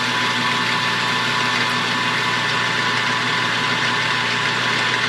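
Metal lathe spindle running steadily at about 1,000 RPM, a constant hum with a high whine over it, while the locked-carriage tool is fed in to face the end of a small part.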